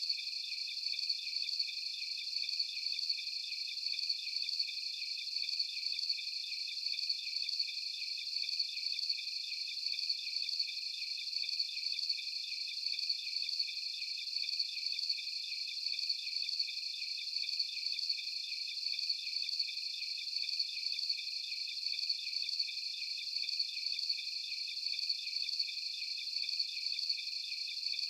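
Crickets chirping in a dense, unbroken chorus of rapid, high-pitched trills, steady throughout.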